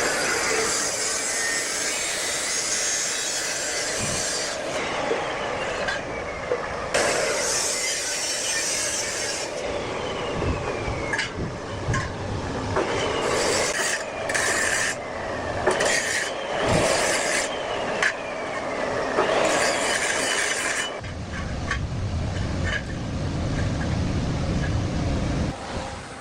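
Rasping, scraping work noise in several separate passes, with scattered sharp knocks; a low rumble comes in about three quarters of the way through.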